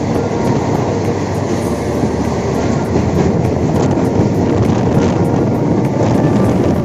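Indian Railways passenger train running on the track: a steady, loud rumble and rattle of wheels on rails.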